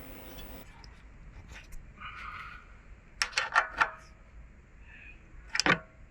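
A few light metallic clicks and taps as a spanner or socket works the drain screw on the lawn mower's carburettor fuel bowl: a quick run of four a little after three seconds in and one more near the end.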